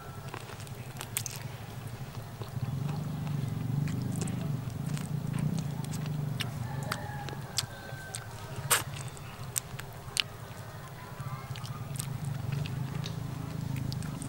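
Close-up eating: a person chewing and gnawing meat off a cooked chicken leg, with scattered wet smacks and clicks, the sharpest about nine seconds in. A low muffled rumble from the mouth swells between about two and six seconds in and again near the end.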